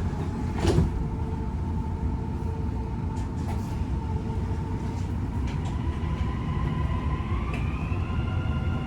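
Dubai Metro train carriage running with a steady low rumble, after a single thud about a second in as the doors shut. A motor whine holds steady, then rises in pitch near the end as the train gathers speed.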